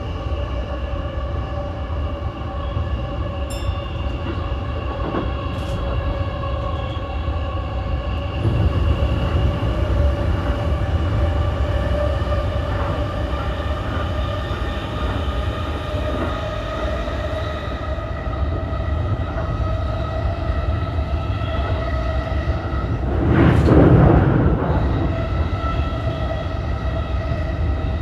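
E233-1000 series electric commuter train running at speed: steady rumble of the wheels on the rails with a constant whine of motor tones. A loud rushing swell comes about twenty-three seconds in and fades within a couple of seconds.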